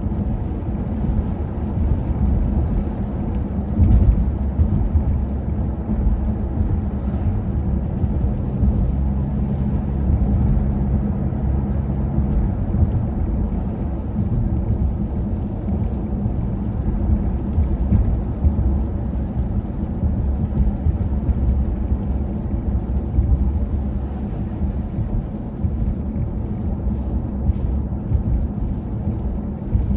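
Wind buffeting the microphone in a blizzard, a steady low rumble with a stronger gust about four seconds in.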